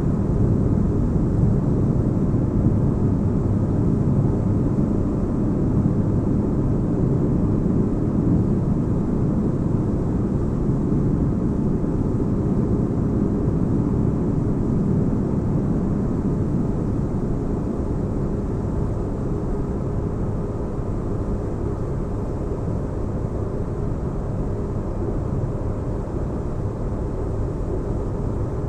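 Sci-fi spaceship ambience: a steady, deep, bass-heavy noise with little high end, easing off slightly in loudness.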